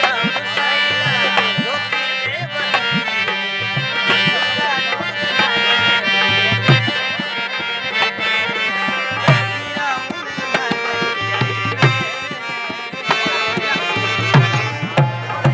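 Live Rajasthani folk music: a hand drum plays a steady rhythm of low strokes under a sustained, ornamented melody.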